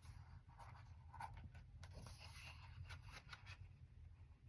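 Near silence over a low steady hum, with faint scattered rustles and clicks of paper, such as book pages being handled and turned.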